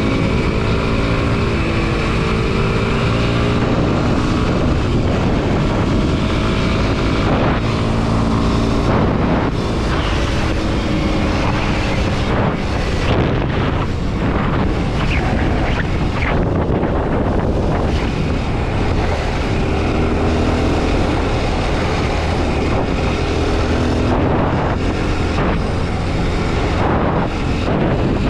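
Kawasaki KLX230 SM's air-cooled single-cylinder four-stroke engine running under way, its revs rising and falling as the throttle changes, with heavy wind rushing over the microphone. Through the middle stretch the wind covers most of the engine.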